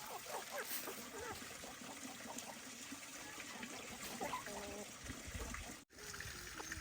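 Water trickling, with faint short squeaky calls scattered over it; the sound cuts off abruptly about six seconds in.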